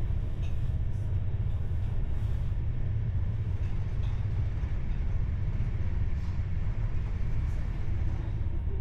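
PKP Intercity express train running at its maximum speed, heard from on board as a steady low rumble of the carriage and wheels on track, with a few faint ticks.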